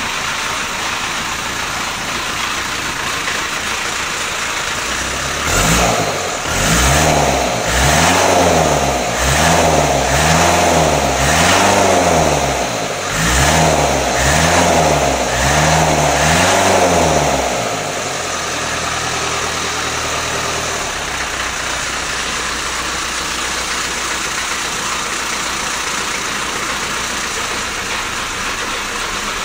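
A 1975 Land Rover 88's engine idling, then revved in a run of about ten quick blips, each rising and falling in pitch, before settling back to a steady idle. The engine is running again after standing unused for nearly ten years.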